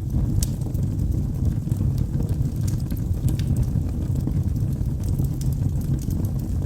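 Wood logs burning in a fireplace: a steady low rumble of flames with scattered sharp crackles and pops, a louder pop about half a second in.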